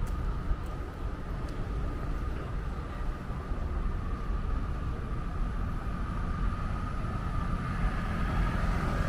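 Outdoor city street ambience: steady traffic rumble, with a steady high buzz that grows louder near the end.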